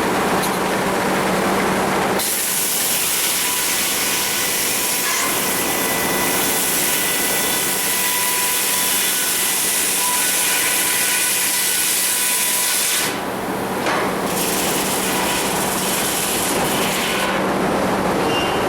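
Sawmill saw cutting lengthwise through a cedar log. The cut comes in about two seconds in as a loud hiss of sawing and stops about eleven seconds later, with the mill's machinery running steadily with a low hum before and after it.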